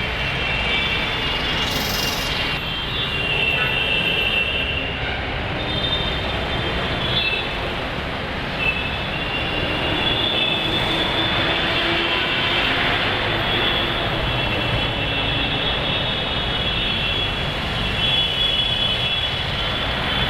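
Metro train running on an elevated track, its wheels squealing with several high, drawn-out tones over a steady rumble of street traffic.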